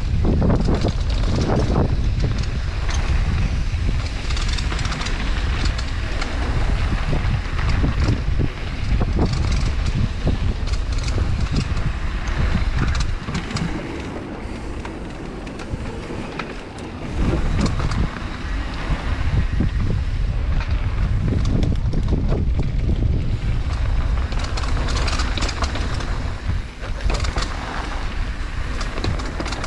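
Wind buffeting the microphone of a mountain bike rider on the move, over tyre roll on a dirt trail and short clicks and rattles from the bike. The wind eases from about 13 to 17 seconds in, then comes back as strong as before.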